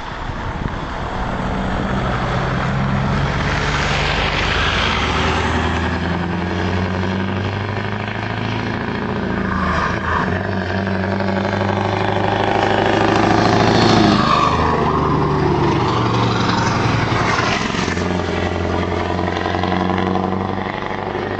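Scania 164 580's V8 diesel engine running hard under load. Its pitch steps and glides up and down several times, and it is loudest about two-thirds of the way through.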